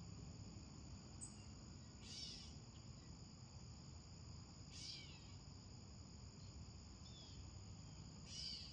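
Faint nature-sound backdrop: a steady high insect drone, with three short high calls about every three seconds.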